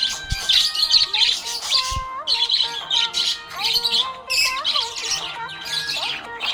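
Budgerigars chirping rapidly and continuously over background music with a stepping melody.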